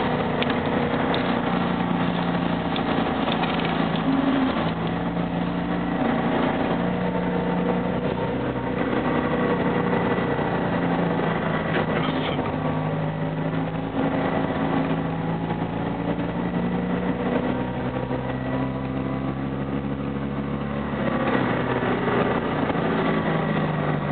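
Fiat 500's engine running steadily as the car drives slowly through snow, heard from inside the cabin, its note shifting up and down a few times with the throttle.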